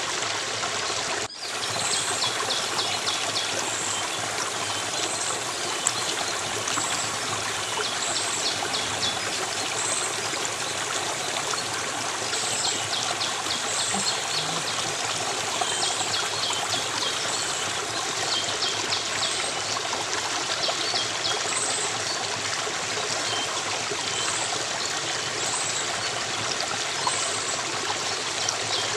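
A stream running steadily, with a constant trickling flow of water. Short high chirps repeat every second or two over the water. There is a brief cut in the sound about a second in.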